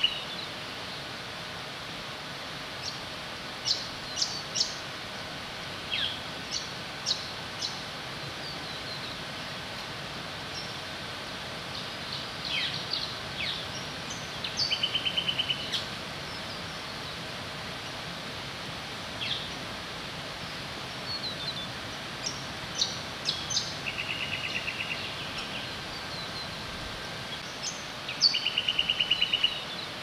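Wild birds calling against a steady outdoor hiss: a rapid rattling trill lasting about a second recurs every several seconds, with scattered short high chirps and whistles in between.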